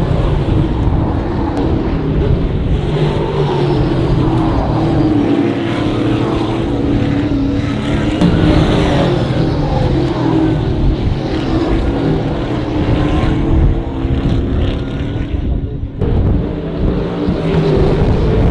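Trans Am race car V8 engines running hard at racing speed. The engine note rises and falls continuously, with a brief drop in level about sixteen seconds in.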